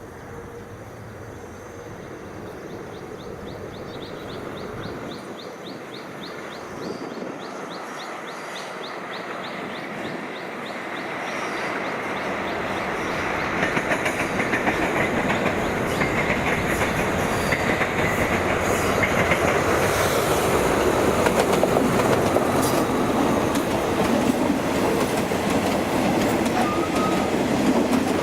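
A train approaching on the line, growing steadily louder and levelling off about halfway through, with wheels clattering over the rails.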